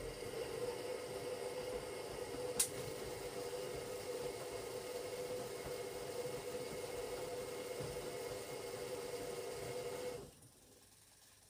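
Hoover Logic washing machine running on a Cotton 60 wash cycle with towels: its motor hums steadily for about ten seconds, most likely turning the drum, with a sharp click about two and a half seconds in, then stops abruptly.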